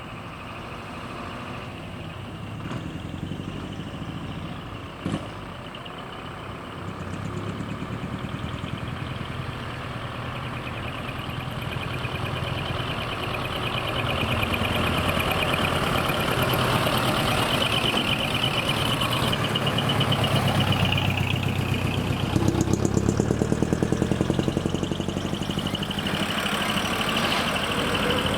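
Heavy diesel trucks running and pulling away, with the engine sound getting louder after about 14 seconds as a truck nears and passes. A short sharp burst comes about five seconds in.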